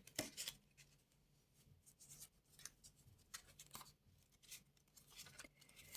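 Faint, scattered rustles and light taps of playing cards being handled and laid out on a table.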